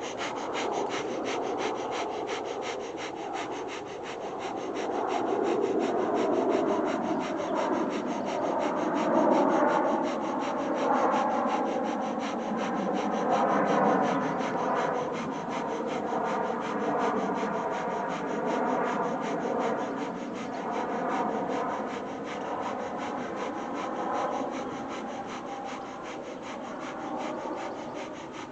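A person doing Kundalini breath of fire: very rapid, rhythmic, forceful breaths through the nose, pumped by the stomach with an equal inhale and exhale, kept up without a break.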